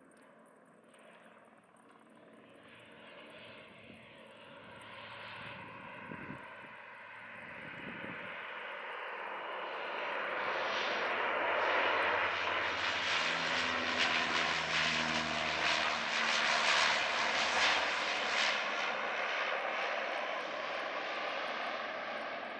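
Canadair CL-415 water bomber's two turboprop engines approaching and passing, growing steadily louder over about ten seconds, loudest in the second half, then easing off slightly near the end.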